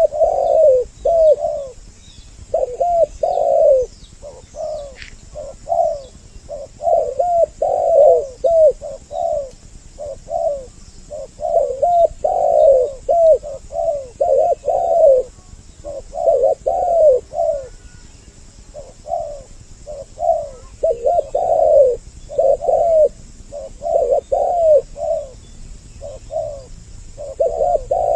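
Spotted doves (tekukur) cooing over and over, two birds' calls overlapping in phrases of short, bending coo notes. This is a lure-call recording meant to draw doves in.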